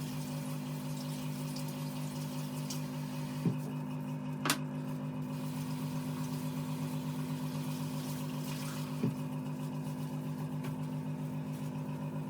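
A steady electric hum with a faint even pulse, like a running appliance motor or pump, broken by a few light clicks and knocks.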